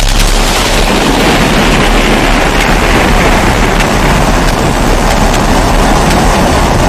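Steady roar of a pressurised kerosene (primus-type) stove burner, a constant rushing noise, with a brief click right at the start.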